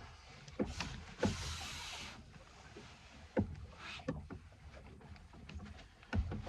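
Scattered knocks and bumps of handling on a small fishing boat, with a hissing rush of noise lasting about a second, starting a second in, and heavier thumps near the middle and near the end.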